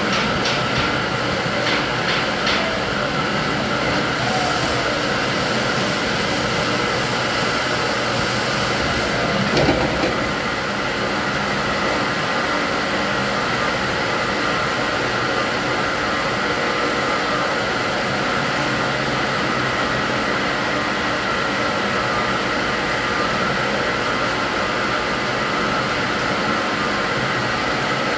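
Steady mechanical running noise with several constant hum tones, a few faint clicks in the first couple of seconds and a brief louder swell about ten seconds in.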